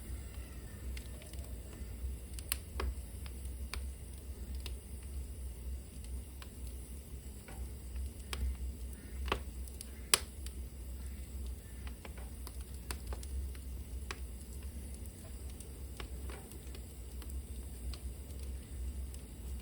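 Burning wood crackling in a fireplace, with sharp pops at irregular intervals, the loudest about halfway through, over a steady low rumble.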